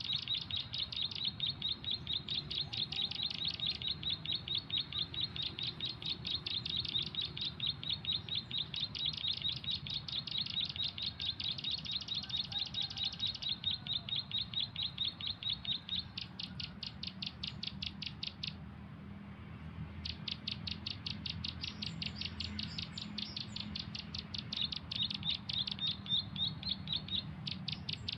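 Bird lure call played from a phone speaker: a rapid, very evenly repeated high chirping, many chirps a second. It breaks off for a moment about two-thirds of the way through, then starts again.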